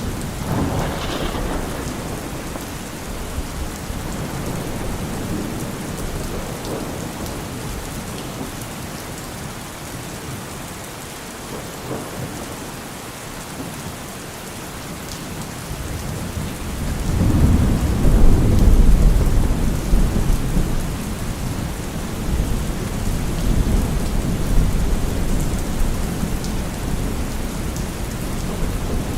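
Steady rain falling on forest trees, with low rolling thunder: one rumble fading in the first few seconds, and a louder one building about 17 seconds in and rolling on for several seconds.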